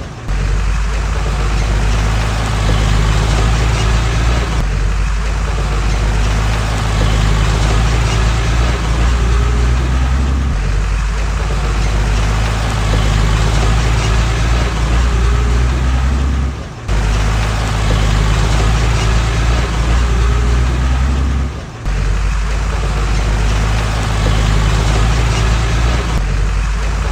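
Heavy diesel engines of earthmoving machinery running steadily under work. The sound breaks off briefly and changes pitch a few times where clips are joined.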